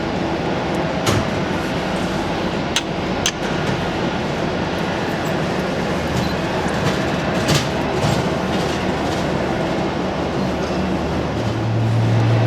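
Steady mechanical rumble of an airliner and ground equipment on the apron, with a few sharp clicks and a deeper steady hum coming in near the end.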